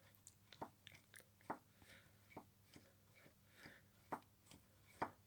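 Exhaust-camshaft VVT phaser (cam phaser coupling) on a Volvo XC90 being worked by hand, giving light clicking knocks about once a second from its axial play. The play is the sign of a worn-out phaser that needs replacing, since it will otherwise push out of the camshaft seal and leak oil.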